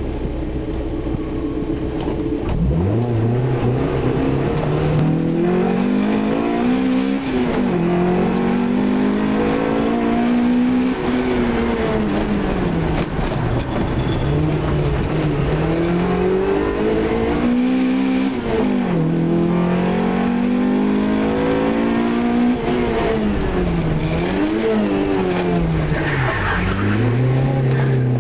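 Car engine driven hard on a rallysprint course, heard from inside the cabin: the revs climb and fall again and again as it accelerates and slows, pulling up from low revs about two and a half seconds in.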